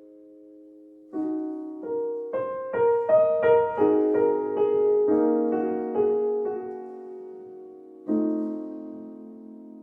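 Solo piano playing slowly: a held chord fades, then notes are struck about a second in, a short rising run of notes follows, and a new chord comes in near the end.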